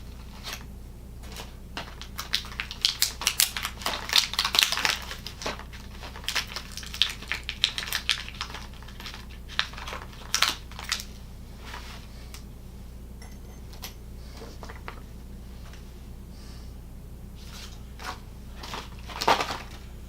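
Irregular clicking and clatter of metal hardware being handled, dense through the first half, sparse after, with a short burst near the end: Allen screws and curved washers being fitted to the rear handlebar of a recumbent exercise bike.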